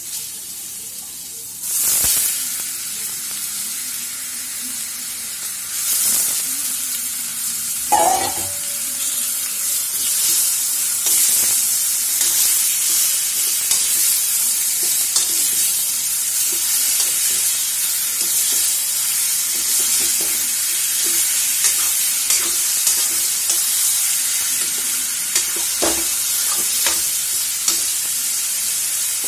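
Raw chicken pieces sizzling in hot oil in a kadai, browning with fried onions, while a steel ladle scrapes and clicks against the pan as they are stirred. The sizzle grows louder about two seconds in, and a louder ringing metal clang comes about eight seconds in.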